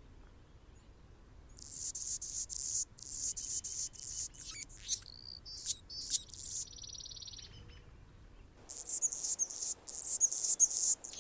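Anna's hummingbird singing: a run of rapid, very high-pitched chips starting about a second and a half in, a short even buzz in the middle, a brief pause, then a second run of chips near the end.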